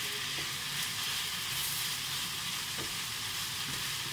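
Minced meat and freshly added chopped tomatoes sizzling steadily in a frying pan, stirred with a wooden spoon, with a few faint scrapes of the spoon.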